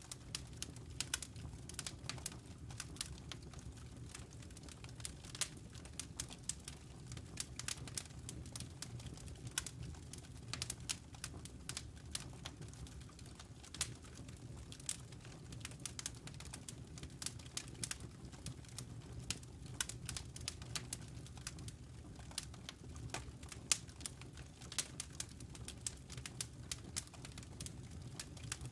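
Campfire embers crackling: irregular sharp pops and snaps, several a second, over a steady low rumble of the fire.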